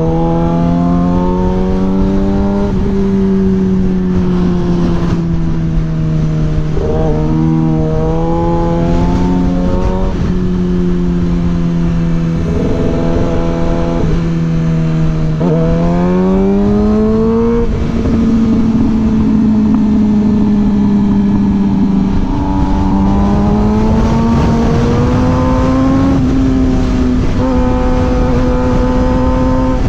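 Suzuki GSX-R 600's inline-four engine running under way, its pitch holding and climbing as it pulls and dropping back at gear changes. Wind rushes over the microphone throughout.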